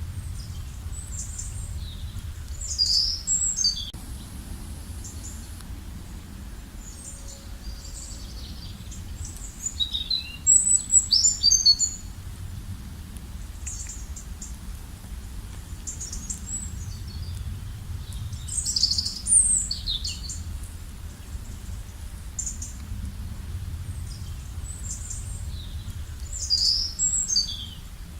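A songbird singing short, high, chirping phrases, four times at intervals of several seconds, loudest about ten seconds in, over a steady low rumble.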